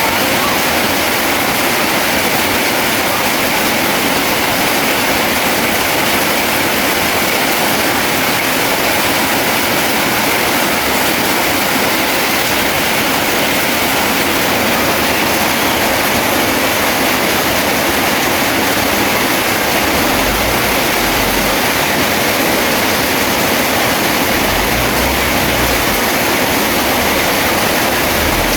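Steady hiss of heavy rain, even and unbroken, with brief low rumbles about two-thirds of the way through and again near the end.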